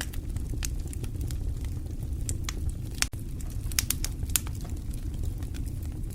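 Wood fire crackling: irregular sharp pops and snaps over a steady low rumble, with a cluster of louder pops about halfway through.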